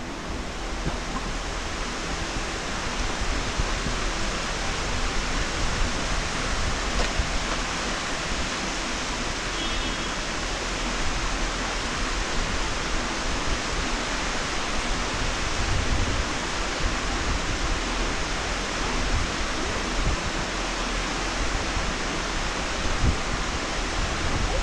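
Steady rushing of falling water from a waterfall, with occasional low wind thumps on the microphone.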